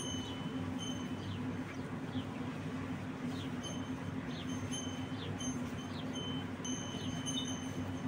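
Small birds calling: many short, high downward chirps and clipped high whistled notes that start and stop irregularly, over a low steady hum.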